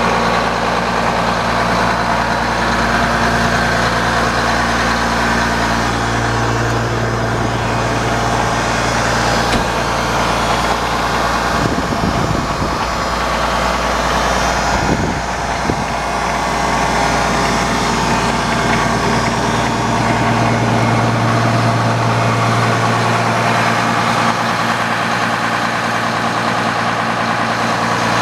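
Case 7140 tractor's six-cylinder turbocharged diesel engine running steadily, with a brief wavering shift in the engine note about halfway through.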